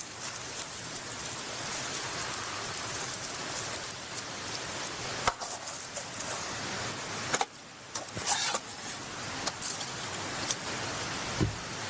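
Beef offal (horumon) sizzling on a charcoal grill: a steady hiss with scattered sharp pops and crackles, several of them bunched together in the second half.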